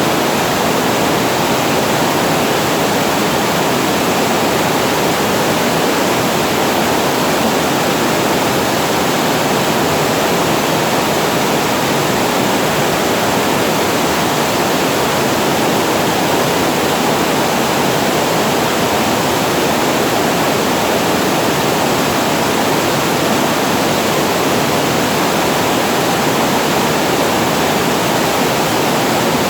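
Water pouring over a reservoir weir, a loud steady rush with no breaks.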